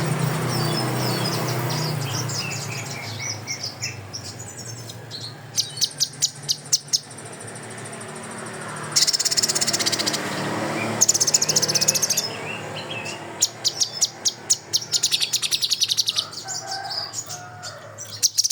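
A kinoi songbird singing shot-like 'tembakan' phrases in the style of the cililin and kapas tembak: bursts of very fast, high rattling trills between sweeter whistled notes, over a low steady hum.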